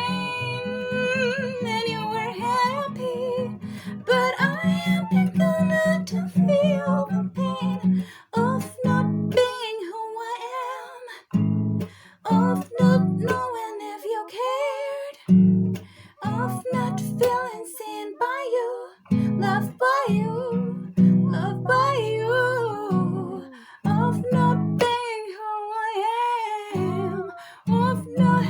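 Acoustic guitar accompanying a slow sung melody. The guitar chords run steadily for about the first third, then come in short separated strums and plucks with pauses while the voice carries on.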